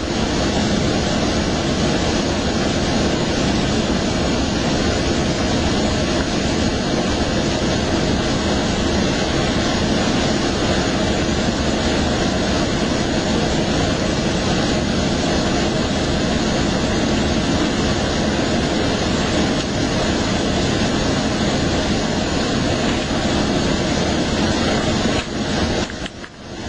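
Steady, loud rumbling roar of a moving train, with no distinct events in it. It dips and breaks off about a second before the end.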